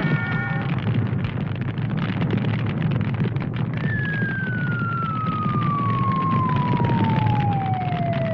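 Cartoon sound effects: a steady low rumble, joined about four seconds in by a long whistle that falls slowly in pitch, like a falling-object whistle.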